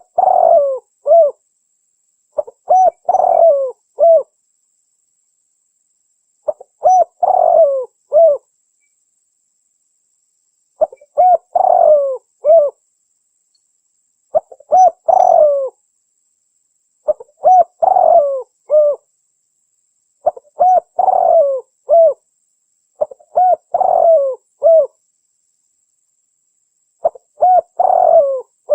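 Spotted dove (tekukur) cooing: short phrases of three or four coos, repeated about every three to four seconds. A call recording played to lure wild spotted doves.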